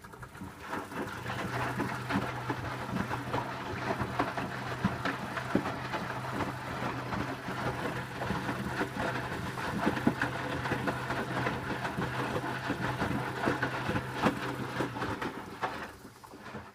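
Electrolux W455H commercial washing machine running, its motor humming steadily as the drum turns the wet towel load, with a busy rattling noise throughout; the hum starts about a second in and stops near the end.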